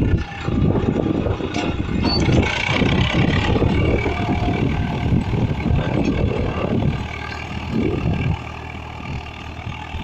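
Tractor engine running hard, loud and uneven, easing to a lower level about eight seconds in.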